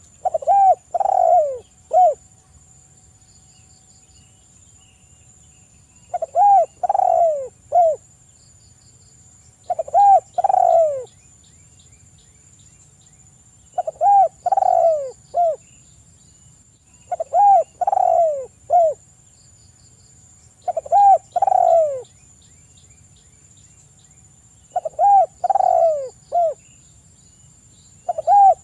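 Spotted dove (tekukur) cooing: a phrase of several coos repeated about every three to four seconds, eight times in all. Behind it are a faint steady high whine, like insects, and a few small chirps.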